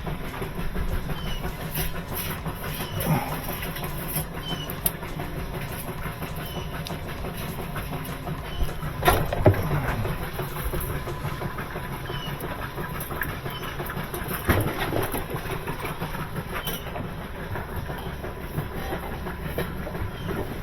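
Whirlpool direct-drive top-load washer running, a steady mechanical hum with a faint short squeak repeating about once a second and a couple of knocks. The repairer takes the way it runs as a sign the clutch is not the problem.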